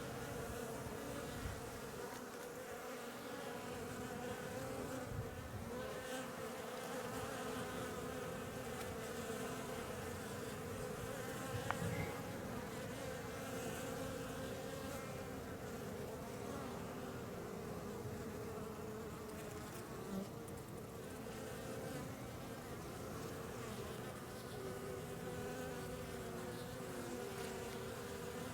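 Many honeybees buzzing in flight around the hive entrance: a steady drone of wings with a hum that wavers around one pitch. There is a brief tap about twelve seconds in.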